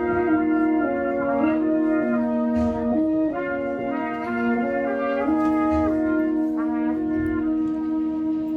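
Brass quartet playing: several brass instruments sound sustained notes together, moving in short steps, then settle into a long held chord about five seconds in.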